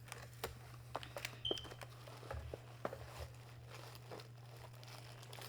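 Scattered light clicks and crinkles of snack packaging being handled, over a steady low hum.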